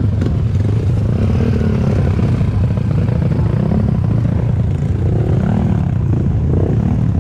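Dirt bike engines running, with a steady low rumble and some light revving now and then.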